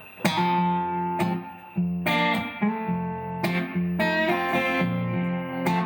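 Guitar playing a song's opening: chords struck sharply every half second to a second and left to ring between strikes.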